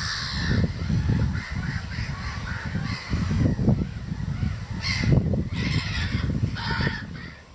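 A flock of wetland birds calling noisily over and over, in alarm at a hen harrier hunting over the reserve.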